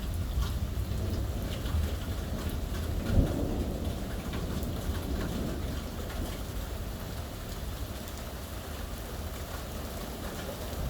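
Heavy rain falling steadily, with scattered drops ticking on surfaces, under rolling thunder. The thunder rumble is heaviest at first, with a sharp crack about three seconds in, and eases off later.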